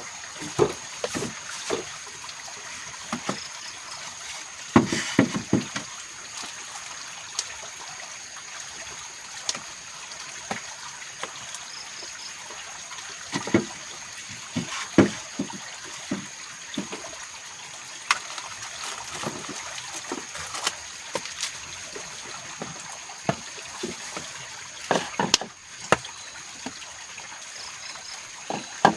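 Steady trickling of running water with a constant high insect drone, broken by irregular knocks and clatters from something being handled.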